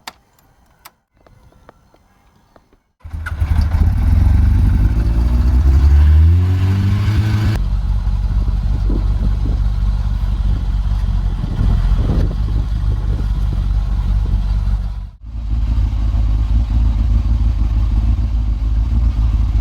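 Kawasaki ZZR1200's inline-four engine starting about three seconds in after a few faint clicks, rising in pitch as the bike pulls away, then running steadily on the ride, with a short break near the end.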